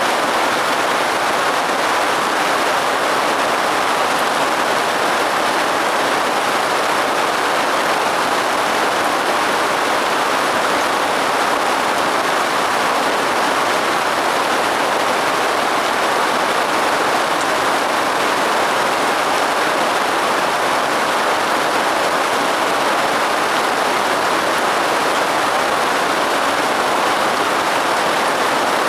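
Steady rain, an even hiss that does not change, with no thunder or other sudden sounds.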